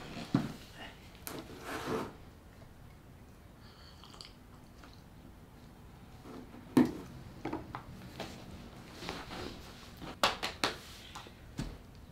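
Scattered small knocks, taps and rustles of someone moving about in a small room, the sharpest knock about seven seconds in and a quick cluster near ten seconds, with a brief faint squeak about four seconds in.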